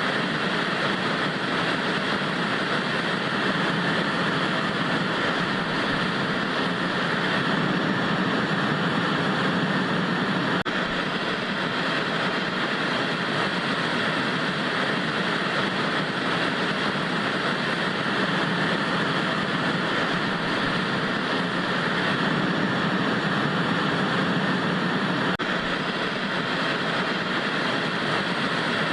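Steady, unchanging hiss of analogue TV static (white noise), with no pitch or rhythm.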